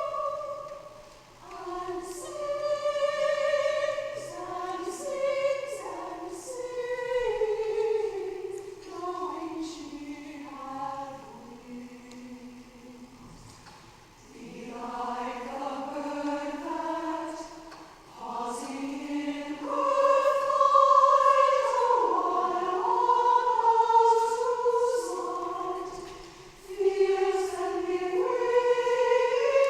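Women's chorus singing in sustained, flowing phrases. The voices soften through the middle and swell to their fullest about two-thirds of the way in.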